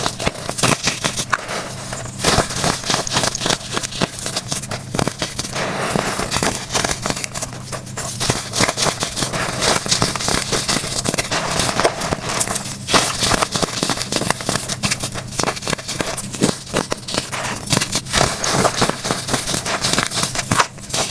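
Dry, compressed baking soda blocks being crushed: a dense, unbroken run of crunching and crackling made of many small sharp cracks.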